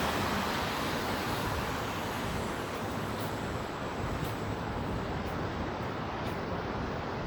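Steady city street noise of traffic passing on a wet road, with faint ticks about once a second in the second half.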